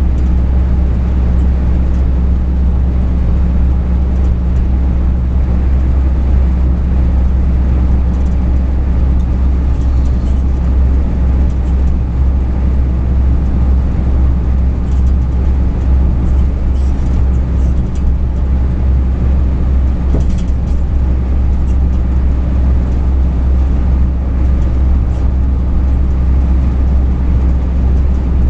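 Truck engine and road noise while driving: a steady low drone.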